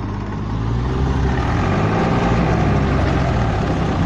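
Massey Ferguson tractor's diesel engine running hard, its pitch wavering up and down. It gets louder over the first second, then holds steady.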